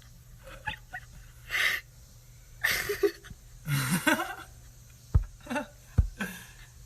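Several short, breathy bursts of a person's voice, with two brief low thumps about two-thirds of the way in.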